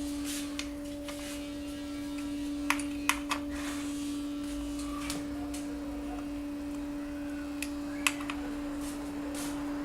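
A steady hum at one pitch, with a handful of sharp metallic clicks from hand tools working on the engine's bolts: a cluster of three about three seconds in and one more near the end.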